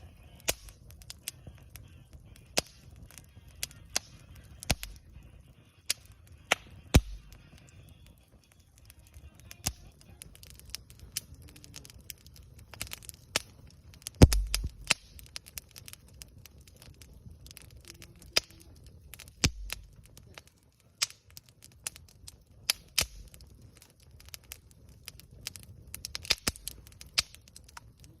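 Wood campfire crackling, with sharp pops at irregular intervals; the loudest pop comes about 14 seconds in.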